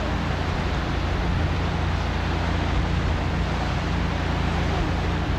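Steady low engine drone of a boat underway, mixed with wind noise on the microphone.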